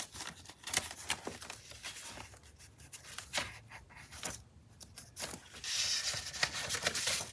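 Paper and craft supplies being handled: scattered light taps and clicks, with a longer rustling, crinkling stretch near the end.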